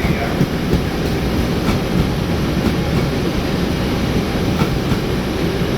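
Singasari passenger train's carriages rolling past: a steady, loud rumble of wheels on rail, with a few irregular clicks of wheels over the rail joints.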